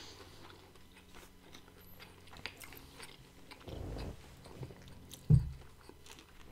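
Close-up chewing and faint mouth clicks from people eating a spicy chicken sandwich, with a single sharp low thump a little after five seconds in.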